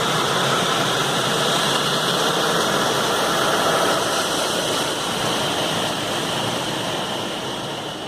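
Car wash equipment running with a steady hiss over motor noise, gradually fading toward the end.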